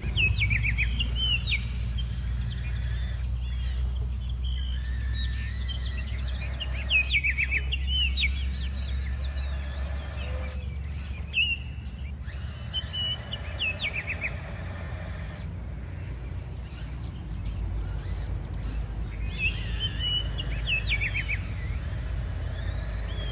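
Birds chirping in short phrases several times over a steady low rumble.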